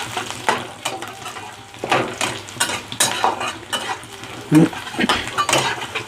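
Minced garlic, ginger and dry red chillies sizzling in hot oil in a kadai, with a metal spatula scraping and knocking against the pan at irregular intervals as they are stirred and fried.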